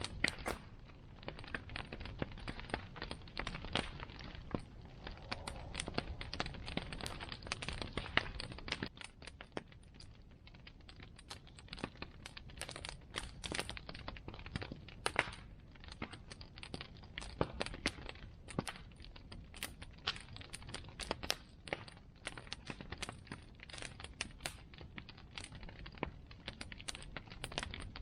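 Bonfire crackling: burning wood giving off many irregular sharp cracks and pops, some louder than others, over a steady low rush of flame.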